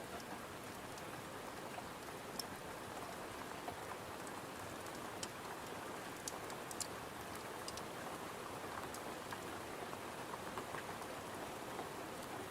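Steady gentle rain hissing, with a wood fire crackling: a dozen or so scattered sharp pops over the even rain.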